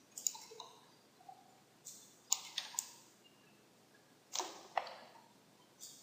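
Faint, irregular sharp clicks of a computer mouse, about seven in all, some in quick pairs, as parts of a 3D model are selected in software.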